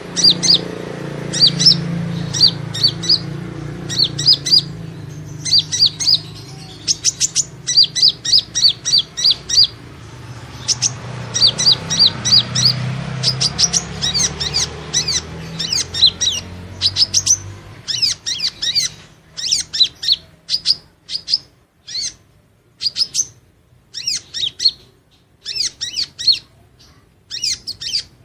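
Kolibri ninja sunbird calling: quick runs of high, thin, sharp chirps in short clusters, used as a lure call for trapping this species. A low rumble sits underneath and fades out about two-thirds of the way through.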